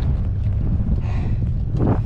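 Wind buffeting the microphone: a loud, steady low rumble that swells briefly near the end.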